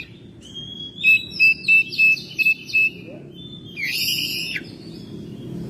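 Oriental magpie-robin (kacer) singing: a quick run of clear, repeated whistled notes, then a longer swooping phrase about four seconds in.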